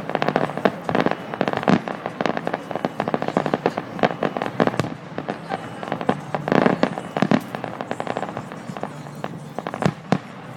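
Fireworks going off in quick succession: a dense run of sharp bangs and crackles. There is a heavier cluster about two-thirds of the way in and a few strong bangs near the end.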